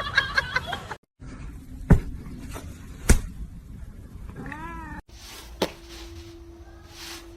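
A domestic cat meows once, a short call that rises and falls, with a couple of sharp knocks before it.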